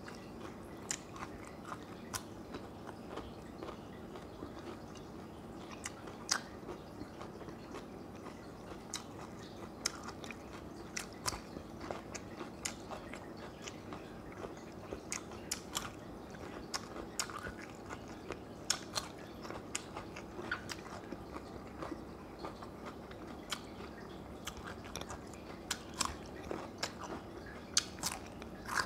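Close-miked mukbang eating: chewing with many short, sharp crunches and mouth clicks, a few every second, from bites of raw cucumber and food eaten by hand.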